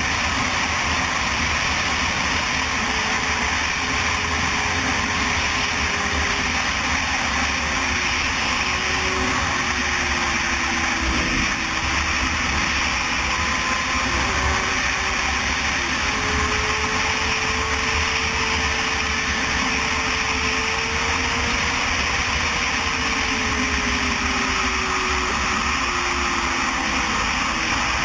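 Motor vehicle running steadily under a constant rush of road and wind noise, with a faint engine tone that slowly wavers up and down in pitch.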